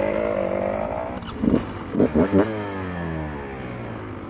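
Dirt bike engine running under throttle in gear, with two short louder bursts about halfway. The engine note then falls steadily in pitch and fades as the bike eases off or moves away.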